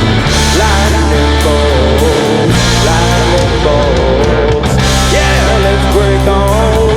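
Rock music: distorted electric guitars with a bending lead melody over steady bass and drums.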